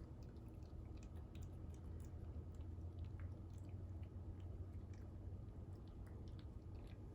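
A cat chewing cooked salmon: faint, irregular small wet clicks over a steady low hum.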